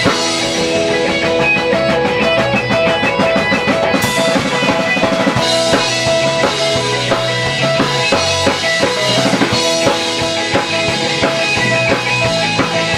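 Live rock band playing: guitar and drum kit, with a dense run of rapid drum strokes between about two and four seconds in.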